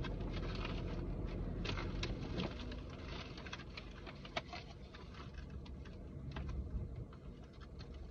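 Food containers, wrappers and bags being handled and set out: scattered light clicks, taps and rustles over a low steady hum inside a parked car.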